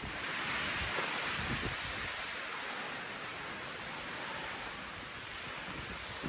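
Blizzard wind rushing steadily through forest trees: a dense, even hiss that swells in the first second and eases slightly toward the end.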